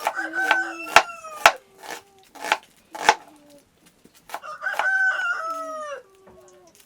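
A rooster crowing twice, each crow a long call that falls in pitch at the end. Between the crows come several sharp knocks.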